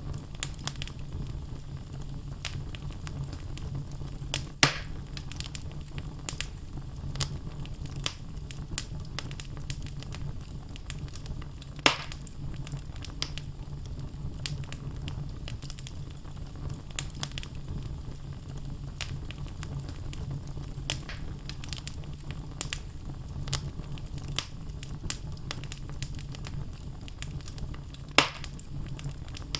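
Wood logs burning in a fireplace: a steady low rumble of flame with frequent small crackles and three louder pops, about five seconds in, about twelve seconds in and near the end.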